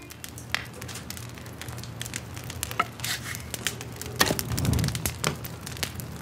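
Wood fire in a fireplace crackling, with irregular sharp pops.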